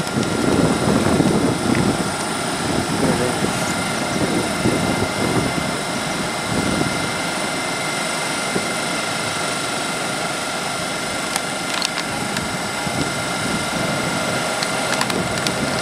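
GWR Hitachi Class 800 bi-mode train standing at the platform, its onboard equipment giving a steady hum with several high whining tones.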